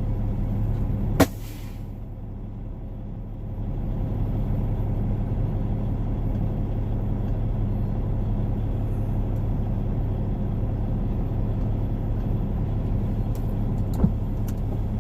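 Semi truck's diesel engine running, heard from inside the cab, with a short sharp air-brake hiss about a second in. The engine note drops after the hiss and picks back up around four seconds in as the truck gets under way.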